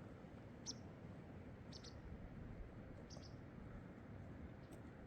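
Faint short high chirps of a small bird, three in a row about a second apart, over a low steady background rumble.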